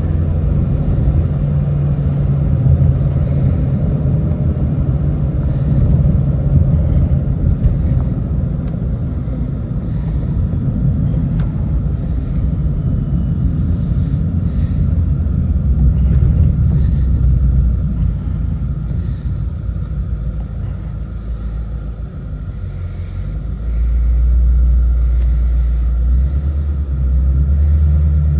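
Shelby GT350's 5.2-litre flat-plane-crank V8 and exhaust heard from inside the cabin while driving: a steady low rumble that eases off about twenty seconds in and gets louder again a few seconds later.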